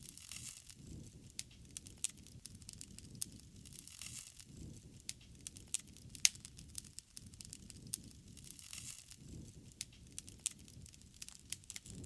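Wood fire crackling, with irregular sharp pops and snaps several times a second over a low, uneven rushing of the flames.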